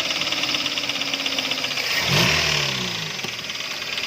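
Toyota Avanza's 3SZ engine running with a rapid, even knocking. The mechanic puts the knock down to a connecting rod bent when water got into the cylinder through the throttle body.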